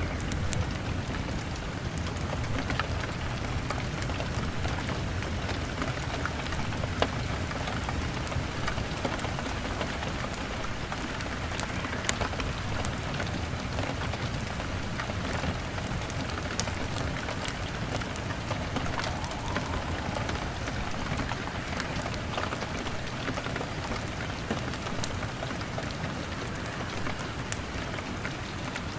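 Steady rain on window glass mixed with a crackling fire, scattered sharp pops and clicks over the even hiss of the rain.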